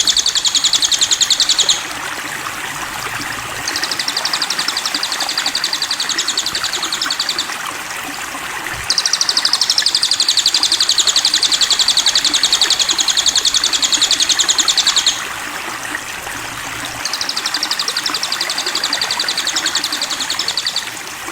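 Sogon bird calling in long, rapid, evenly pulsed high trills lasting several seconds each, four bouts with short pauses between. A steady rushing water sound, like a stream, runs underneath.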